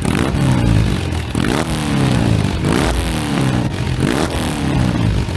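Motorcycle engine running loudly, its pitch repeatedly falling and rising again as the revs change.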